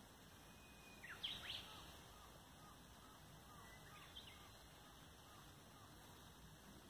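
Birds calling over a quiet outdoor background: a few quick, sharp falling calls about a second in, then a run of faint short notes repeating steadily, and one more call about four seconds in.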